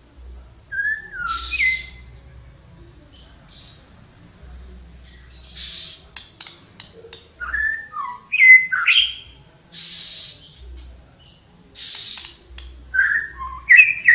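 A tledekan songbird singing in short, separate phrases of quick gliding whistled notes, mixed with scratchy chattering bursts and pauses between phrases.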